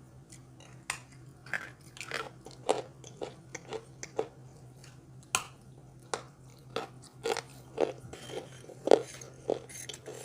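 A person biting and chewing large pieces of chalk with khawa clay: a string of sharp, dry crunches, about two a second, with the loudest near the end.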